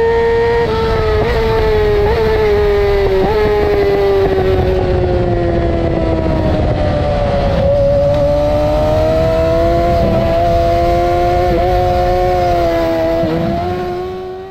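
2008 Yamaha R6's 600 cc inline-four engine running hard at high revs, with a high, tonal exhaust note. The pitch slides down over the first half and then slowly climbs again, with a few quick blips along the way. Rushing wind noise sits underneath.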